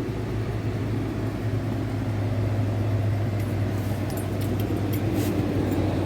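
2015 Dodge Charger engine idling steadily, running again now that its no-crank, no-start fault has been repaired. A few faint clicks come about halfway through.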